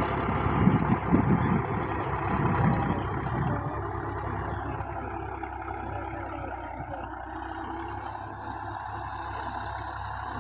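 Tractor diesel engine running, with uneven low thumps for the first few seconds, then steadier and gradually getting quieter.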